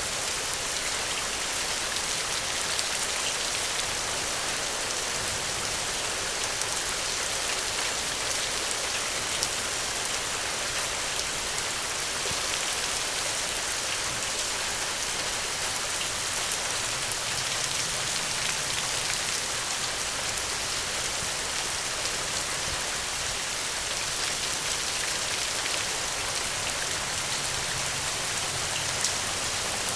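Steady rain falling, an even hiss with scattered individual drop ticks throughout.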